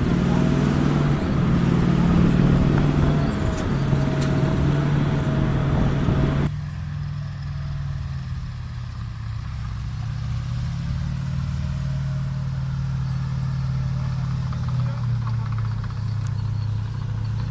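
A Sherman tank's nine-cylinder Continental R975 radial engine running with a steady drone. About six seconds in, the sound drops suddenly to a quieter, duller drone.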